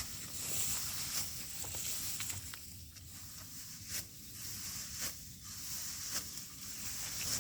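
Rice stalks rustling and crunching as they are cut by hand in the field, with a sharp crunch about once a second over a steady high hiss.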